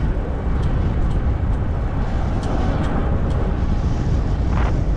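Steady low rumble of wind on the microphone and tyre noise from a 20-inch fat-tire e-bike rolling along a trail.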